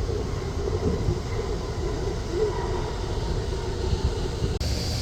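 Steady rumble of jet airliner engines with wind on the microphone. About four and a half seconds in, the sound cuts off abruptly and gives way to a brighter hiss.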